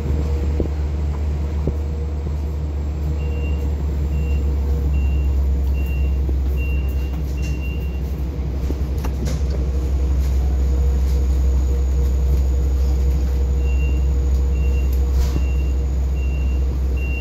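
Long Island Rail Road train hauled by a DM30AC diesel locomotive, running with a steady, loud low drone. Twice, a run of short high beeps sounds at about two a second over the drone.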